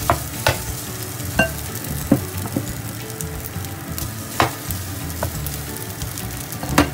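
Rice being stir-fried in a hot pan: a steady sizzle, with the spatula knocking and scraping against the pan about eight times.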